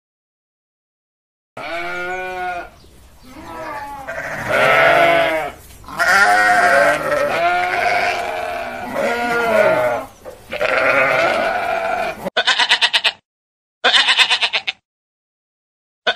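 Goats and sheep bleating: several overlapping bleats with wavering pitch for about ten seconds after a short silence, then two short quavering bleats with a gap between them near the end.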